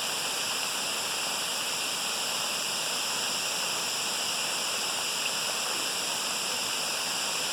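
A waterfall: the steady rush of falling water, a dense, even hiss weighted toward the high end.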